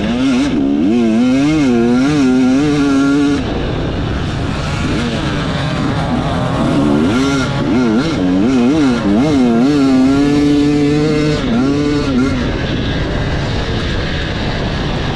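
Enduro motorcycle engine revving up and down in quick throttle swings while riding off-road, holding a steadier high rev for about a second near the middle, then easing off to a lower, rougher running for the last few seconds.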